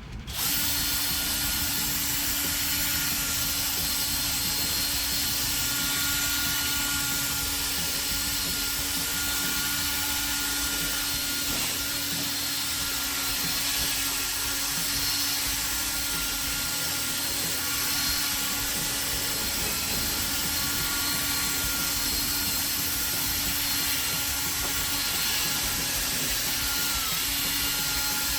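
Electric drill spinning a 3M abrasive sanding disc against a plastic headlight lens, running at a steady speed with a constant whine and a hiss, starting just after the beginning. The disc is sanding the cloudy, oxidised surface off the lens.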